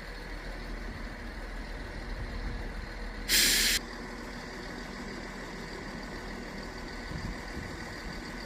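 Train air brake system venting a short, loud burst of hissing air, about half a second long a few seconds in, over a steady low rumble of railway station background.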